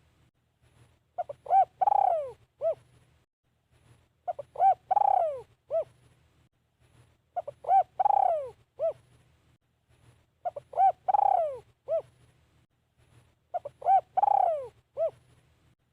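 Spotted dove cooing its song over and over, a phrase about every three seconds: two or three short coos, a longer falling coo, then a short final note.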